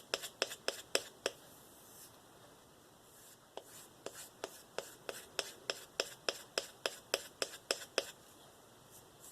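Steel knife blade stroked rapidly back and forth on a balsa strop loaded with 2.5-micron diamond paste, about four short scraping strokes a second. The strokes pause for about two seconds, then resume and stop about a second before the end.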